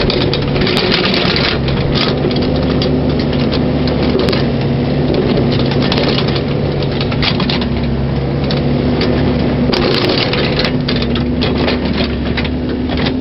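Mini excavator engine running steadily, with scattered crunching and scraping of soil and stones as the bucket backfills a trench.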